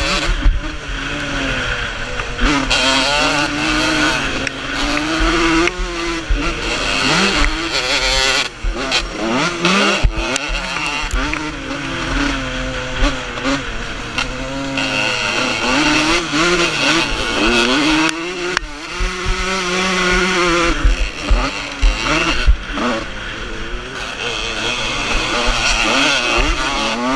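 Vintage motocross motorcycles racing, their engines revving up and falling back over and over as they accelerate and shift, with two engines overlapping at times.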